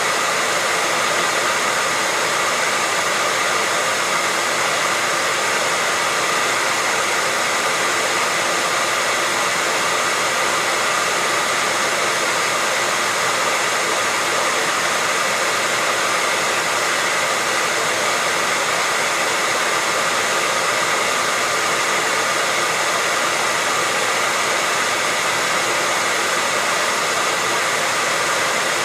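Hair dryer running continuously: a steady rush of blown air with a faint high whine from the motor and fan, unchanging in level.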